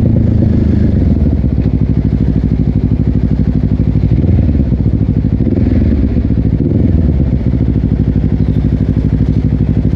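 Honda CBR250RR parallel-twin engine through a Yoshimura exhaust running steadily at low revs, with an even, rapid exhaust pulse.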